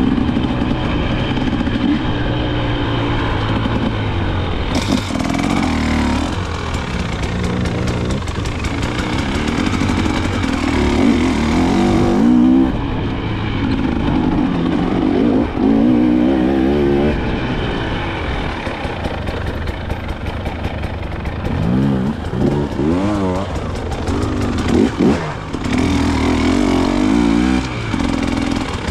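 KTM 300 XC-W two-stroke single-cylinder dirt bike engine being ridden, its pitch rising and falling over and over as the throttle is opened and closed.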